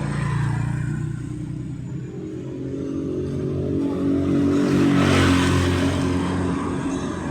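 A motor vehicle passing close by: its engine grows louder to a peak about five seconds in, then fades.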